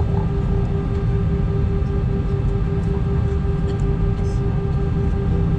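Steady cabin noise inside an Airbus A320: a deep rumble from the jet engines and airflow, with a steady hum and a few fainter constant tones above it.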